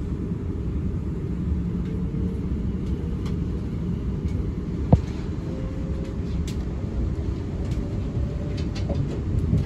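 Interior running noise of a British Rail Class 444 Desiro electric multiple unit at speed: a steady low rumble of wheels on track, with one sharp click about five seconds in.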